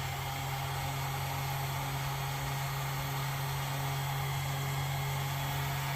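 Steady whirring of a small electric motor with a constant airy hiss, holding the same pitch throughout.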